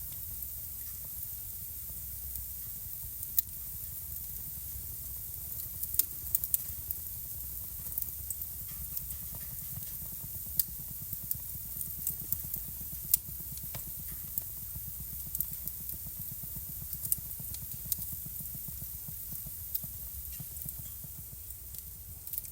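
Wood fire burning in a fireplace, crackling with irregular sharp pops over a steady low rumble and hiss.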